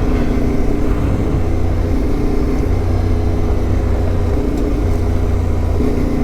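CFMOTO 450MT adventure motorcycle's parallel-twin engine running steadily while riding, its note shifting slightly a few times, with rushing wind noise over it.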